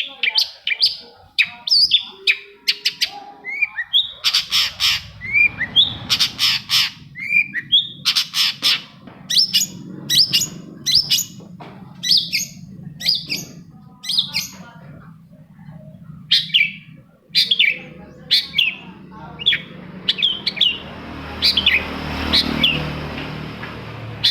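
Long-tailed shrike (cendet) calling: a rapid string of short, sharp chirping notes, several a second, over a low steady hum that comes in a few seconds in.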